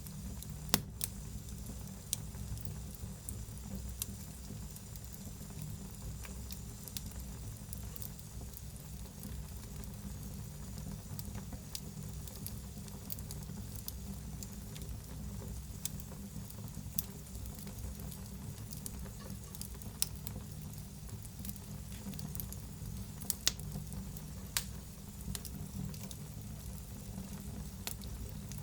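Wood fire burning in a fireplace: a steady low rumble and hiss with scattered sharp pops and crackles, a few louder snaps among them.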